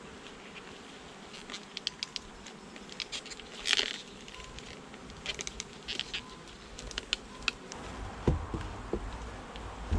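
Honey bees buzzing around an open hive, with scattered sharp clicks and knocks, a louder scrape a little before four seconds and a few low thumps near the end.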